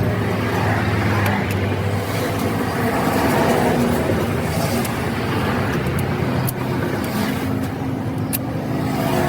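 A motor vehicle's engine running steadily amid road traffic noise, with a few sharp clicks in the second half.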